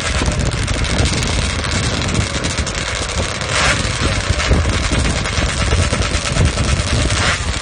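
Drag-racing motorcycle engine running hard on a sand drag strip, with a rapid, dense popping from the exhaust and short rushes of hiss about three and a half seconds in and again near the end.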